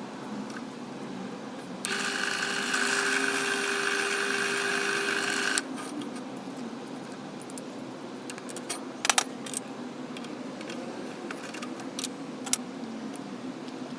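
An angle grinder, used as the motor of a home-made belt grinder, runs for about four seconds with a steady high whine and then stops abruptly. A few sharp metallic clinks follow.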